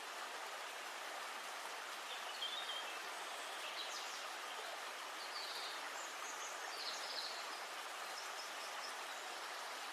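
Steady rush of flowing river water, with short high bird chirps now and then.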